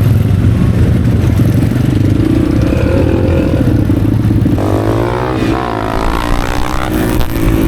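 Motorcycle engine running steadily, then revved up and down a few times from about halfway through.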